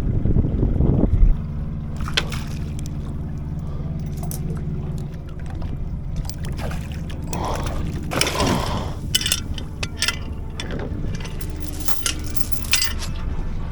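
A boat's engine idling steadily with a low hum, while a series of sharp knocks and rattles comes and goes over it. A loud rushing noise at the very start cuts off suddenly about a second in.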